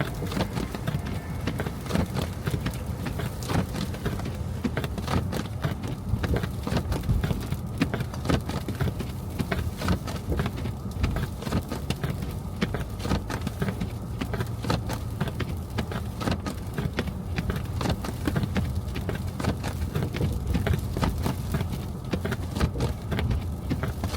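Car driving on a snow-covered street: a steady low road-and-engine rumble with constant irregular crackling and ticking, like tyres crunching through snow and slush.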